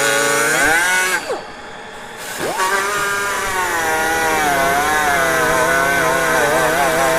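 Die grinder with a sanding disc grinding down the ridges on a Yamaha Grizzly 700's front brake rotor as the rotor spins. Its whine wavers under load, winds down about a second in, pauses briefly, then winds back up and runs on.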